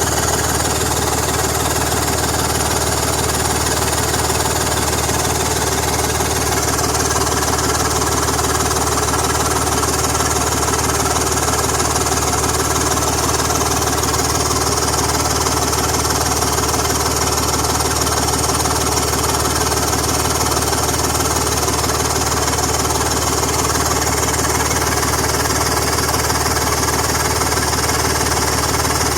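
BMW M54 inline-six engine running steadily, with a fast, regular ticking over the engine note: the sound of an exhaust leak.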